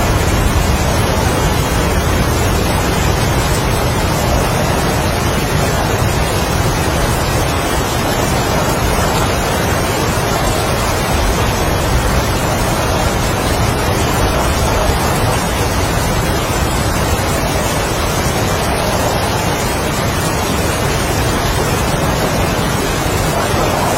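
Heavy rain falling steadily with strong wind that rises and falls in slow gusts, the gusts swelling most strongly near the start and again near the end.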